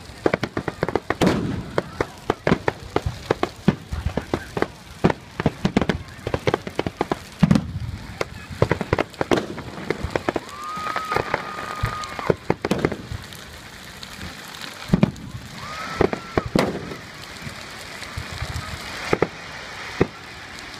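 Large bonfire crackling, with a dense run of sharp pops and cracks, busiest in the first half. A high whistling tone is held twice, once about halfway through and once past two-thirds.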